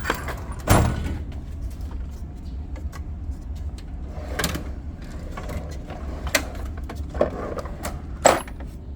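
Rummaging through tools and gear: a series of knocks and clatters, the loudest near the start and near the end, over a steady low hum.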